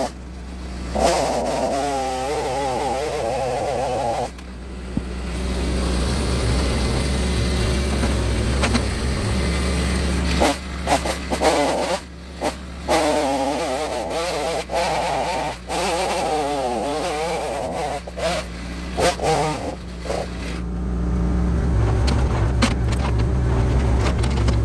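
Stihl 039 chainsaw two-stroke engine running, its pitch wavering rapidly up and down as it is revved, with a few brief drops in level.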